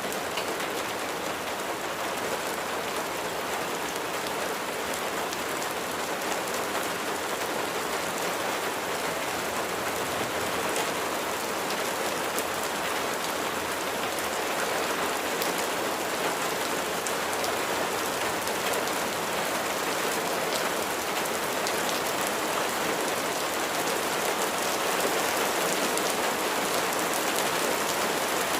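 Steady rain falling: a dense, even hiss of drops with fine individual drop ticks scattered through it, growing slightly louder toward the end.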